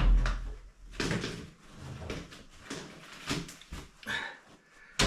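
Irregular knocks, scrapes and handling clatter in a small room, with a heavy low thump at the start and a sharp knock near the end.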